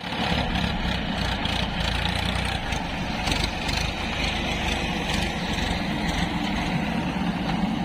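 Diesel engine of a heavy farm or earthmoving machine running steadily.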